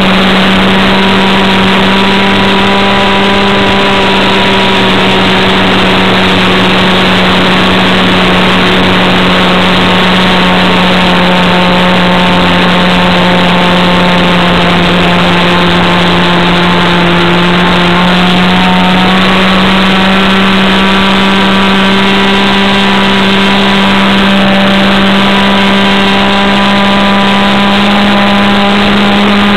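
Avistar 53 two-stroke glow engine on an RC Sport Air 40 airplane running steadily at high throttle, a loud, even buzz whose pitch sags slightly partway through and climbs back.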